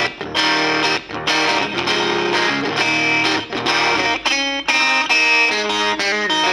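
Electric guitar played through a valve amp head converted from a 1963 Grundig TK-14 reel-to-reel tape recorder, its 12AX7 preamp driven into fuzz-like distortion. It plays a riff of distorted chords broken by short gaps about once a second.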